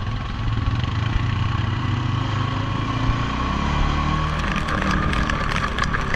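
ATV engine running steadily, picking up revs about three and a half seconds in, with a patter of clicks and light knocks joining about a second later.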